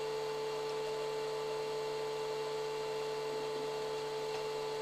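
Steady electrical hum from bench equipment running, with a strong fixed tone over a light hiss and no change throughout.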